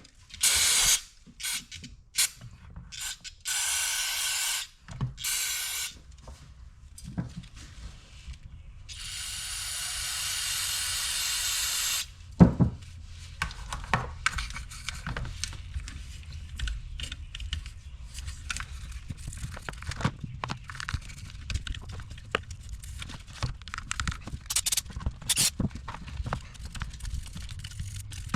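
Aerosol throttle body cleaner sprayed in several hissing bursts, the longest about three seconds. After about twelve seconds the spraying gives way to many small clicks and knocks of parts being handled.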